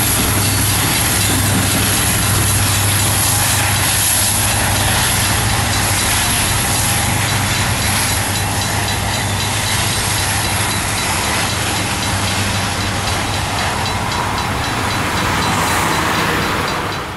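Loaded Union Pacific oil train running away past a grade crossing, its rear distributed-power SD70ACe locomotive giving a steady engine hum over continuous rail and wheel rumble.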